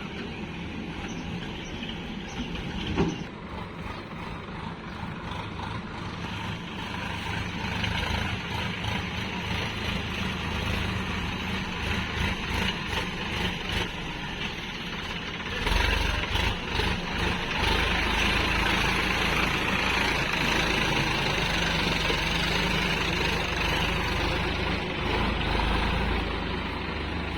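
Diesel engines of a JCB 3DX backhoe loader and tractors running steadily, with a single sharp knock about three seconds in. About halfway through the engine noise grows louder and stays up.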